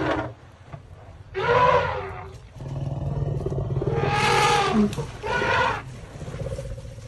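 Elephant calls: three loud calls, about a second in, around four seconds in and just after, over a low steady rumble.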